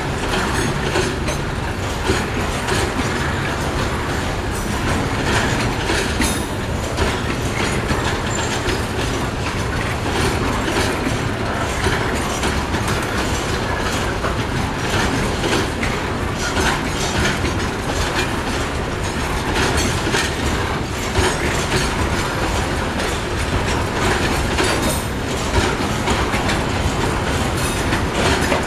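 Freight train's container flat wagons rolling past close by: a steady noise of wheels running on the rails, with repeated clacks from the wheels.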